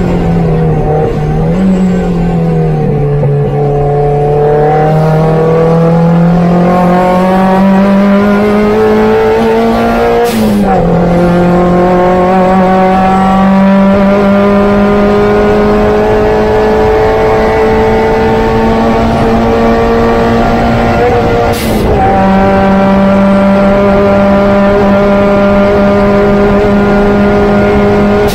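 Opel Speedster's four-cylinder engine running hard at high revs on track, its note dipping early and then climbing, with gear changes about ten and twenty-two seconds in where the pitch drops briefly before holding high again.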